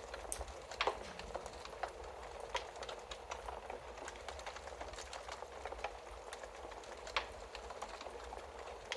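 Wood fire crackling in a fireplace: a soft steady hiss over a low rumble, with frequent small snaps and pops. A couple of louder pops come about a second in and about seven seconds in.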